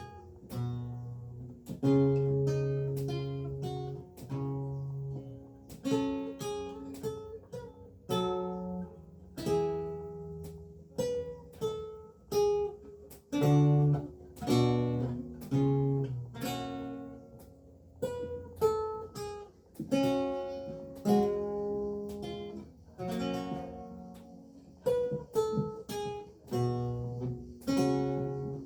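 Renaissance lute with gut strings played solo: a steady flow of plucked chords and single-note melody, each pluck dying away.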